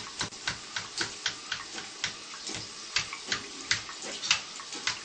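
African grey parrot making a run of sharp clicks, about three a second, over a steady hiss.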